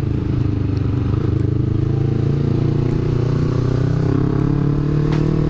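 Yamaha R25's parallel-twin engine breathing through a Villan MV1 aftermarket exhaust, running steadily under way, with the revs rising a little near the end.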